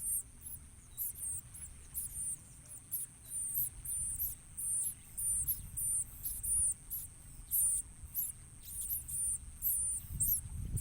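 Bar-winged prinias giving a rapid series of short, very high-pitched chirps, about two or three a second, over a steady high whine.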